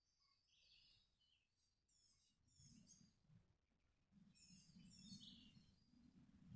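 Faint birdsong: several bursts of short, quick chirps. A faint low rumble joins about four seconds in.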